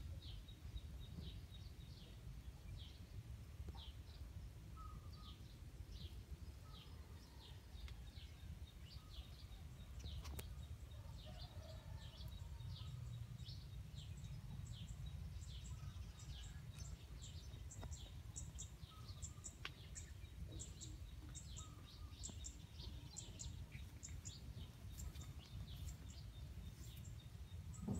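Small birds chirping in a rapid run of short, high chirps, over a faint steady low rumble.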